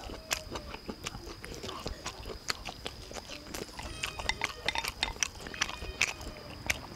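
A person chewing a mouthful of food close to a clip-on microphone: irregular soft, wet clicks and lip smacks.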